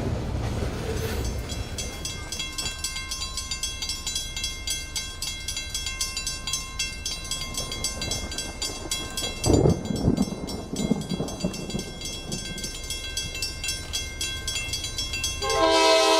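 A train rolls past, its wheels clicking rapidly and steadily over the rail. Near the end the locomotive's multi-note horn starts to sound.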